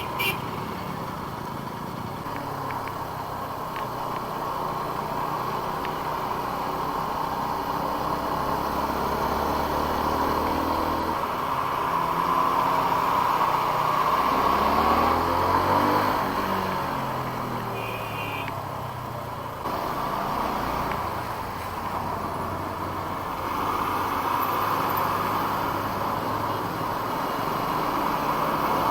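Motorcycle engine running at riding speed with steady wind rush over the helmet microphone; about halfway through the engine pitch drops and climbs again as the bike slows and picks up speed.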